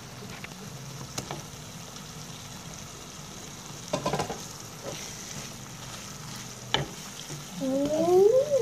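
Red chilli sambal with salted squid sizzling gently in a wok while a spatula stirs it, with a few sharp knocks of the spatula against the pan about four seconds in and again near seven seconds. A short rising squeal near the end is the loudest sound.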